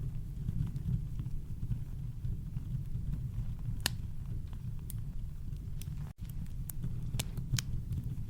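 Campfire crackling, with scattered sharp pops, the strongest about four seconds in and a cluster near the end, over a steady deep brown-noise rumble. The sound drops out for an instant about six seconds in.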